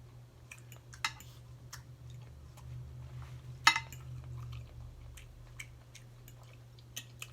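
A person chewing food close to the microphone, with scattered small clicks and taps and one sharper click about three and a half seconds in.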